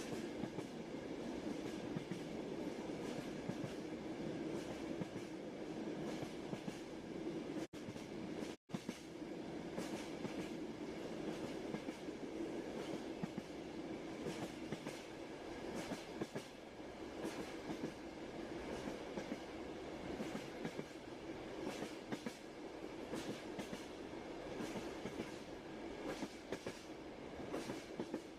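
Railway carriage rumbling along steadily, with the clickety-clack of the wheels over rail joints. The sound cuts out briefly twice about eight seconds in.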